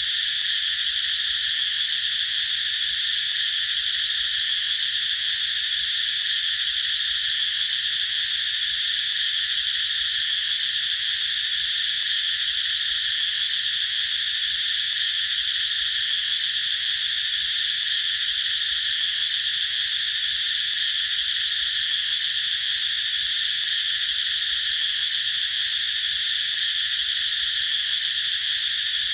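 A chorus of cicadas singing in a continuous high buzzing drone, steady in pitch and loudness with no pauses.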